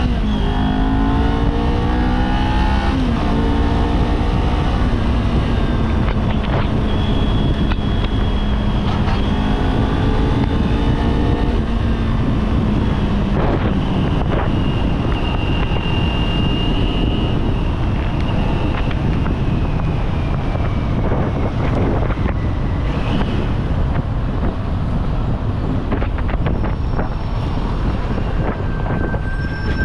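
Kawasaki Z400 parallel-twin engine on the move: it climbs quickly in revs, shifts up about three seconds in, and then holds a steady note. After about twelve seconds in the engine eases off and fades under steady wind and road noise on the microphone.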